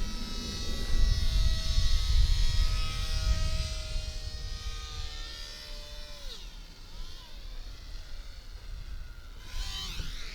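Buzzing whine of a WLtoys F949 mini RC Cessna's three coreless electric motors and propeller in flight. The pitch holds steady, then drops and fades about six seconds in as the throttle comes back, with short rising and falling whines later. Wind rumbles on the microphone during the first few seconds.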